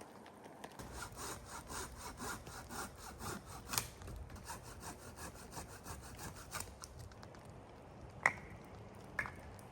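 Hand saw cutting through wood in quick, regular back-and-forth strokes for about five seconds, then stopping; two sharp knocks follow near the end.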